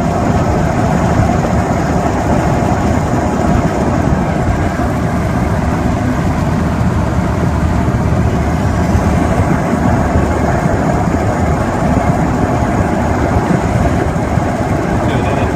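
Rover P6's 3.5-litre V8 running steadily while the car cruises along the road, heard from inside the cabin mixed with road and wind noise.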